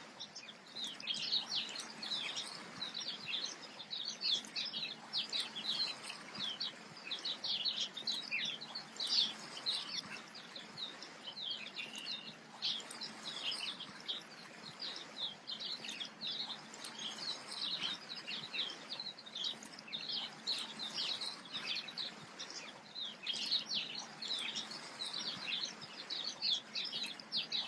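Many small birds chirping at once, a dense, continuous chatter of short high calls over a soft steady hiss.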